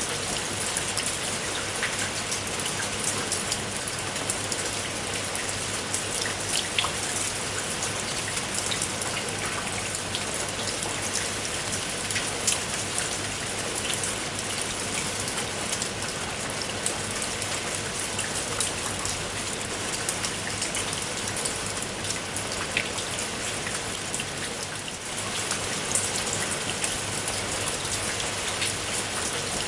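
Steady rain falling, an even hiss dotted with many small sharp drop ticks; it dips briefly softer near the end.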